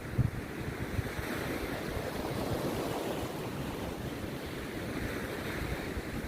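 Rough sea surf breaking and washing onto the beach, a steady rushing noise.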